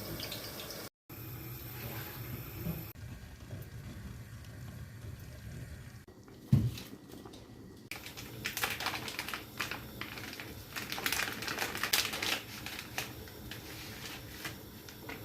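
A run of quick light clicks and taps, densest in the second half, over a faint watery background. There is one low thump midway.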